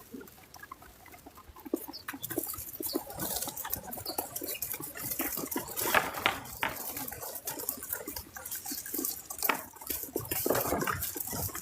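Irregular light clicks, taps and short rustles close to the microphone, a few sharper ones around the middle.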